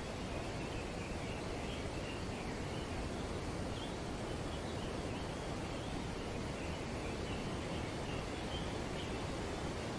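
Steady wind rustling through tree foliage, with faint, wavering bird calls chattering on and off in the background.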